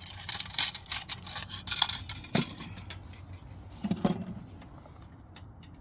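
Metal utensils clinking and scraping against a cooking pot and dishes, a quick run of light clicks and rattles followed by two sharper knocks, as the soup is stirred and tasted for seasoning.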